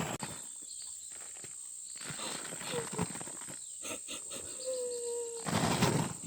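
An animal giving short whining calls, each about half a second and falling slightly in pitch, among bursts of rustling, over a steady high insect drone.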